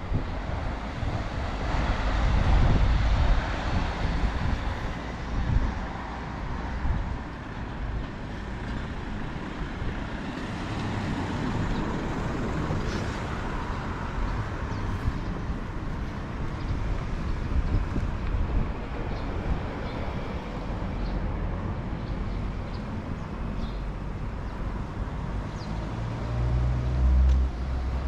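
Street ambience in strong wind: gusts rumble unevenly on the microphone, heaviest early on and again near the end, over the steady noise of road traffic passing.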